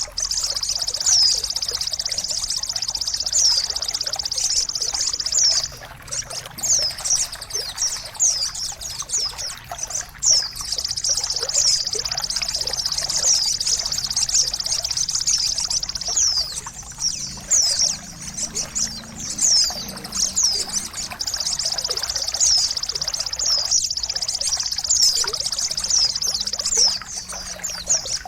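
Songbird therapy audio: a steady high trill with many short downward-sweeping bird chirps over it, and a trickling-water sound underneath. The trill drops out for several seconds about six seconds in, then resumes.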